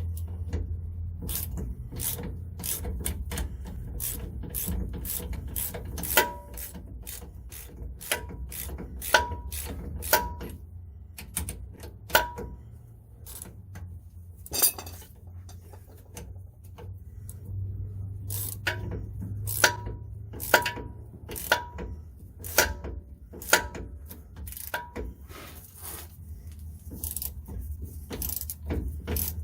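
Hand socket ratchet clicking in short irregular runs as the rear brake caliper bolts are backed out, with a few sharper metallic clinks among the clicks.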